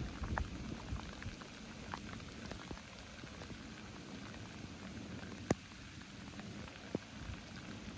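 Steady rain falling, with an uneven low rumble of wind on the microphone and scattered sharp taps of drops, two of them louder in the second half.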